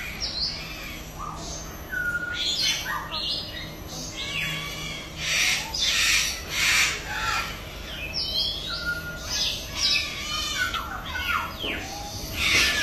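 Parrot calls: harsh squawks mixed with short gliding whistles and chirps, coming in quick succession and loudest around the middle and near the end.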